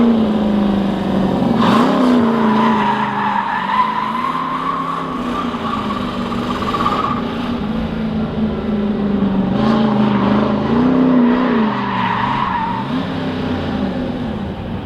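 Drift truck's engine revving up and down while its rear tyres squeal through two long slides, the first starting about two seconds in and the second about ten seconds in.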